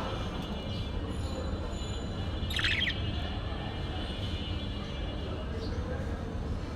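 A bird's short chirp about two and a half seconds in, over a steady low rumble.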